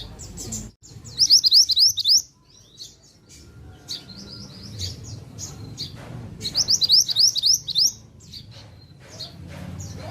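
Pied bushchat (mantenan) singing: a fast run of high, rising notes about a second in and again about six seconds in, with scattered shorter chirps between.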